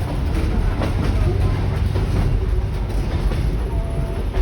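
Heritage train carriage running along the track, heard from inside: a steady low rumble of wheels on rail with a few faint clicks, and a short thin squeal near the end.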